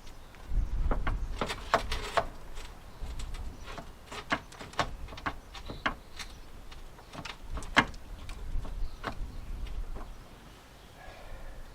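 Hands and tools working inside a Land Rover Discovery 2 rear side door: irregular sharp clicks and knocks, with low thumps about half a second in and again around eight seconds.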